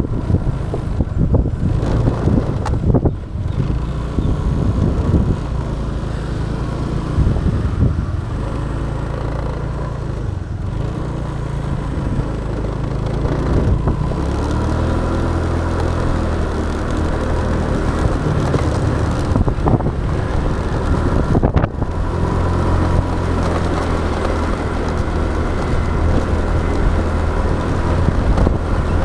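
Motorbike engine running while under way, heard from the rider's camera with road noise around it; the engine note climbs about halfway through as the bike speeds up.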